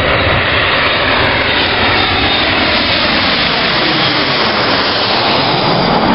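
Jet airliner engines running at close range: a loud, steady rushing noise.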